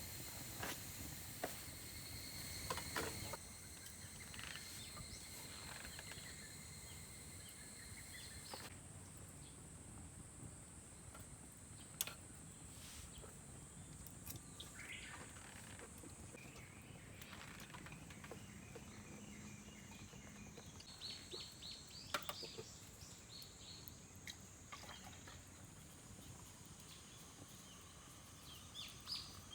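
Faint outdoor summer ambience: a steady high insect drone, with occasional bird chirps and a few sharp clicks. A second, lower steady insect tone stops about a third of the way in.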